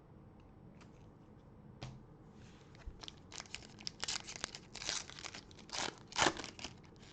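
A trading card pack's plastic wrapper being torn open and crinkled, in a run of short rasping tears and crackles that builds over the second half, loudest near the end.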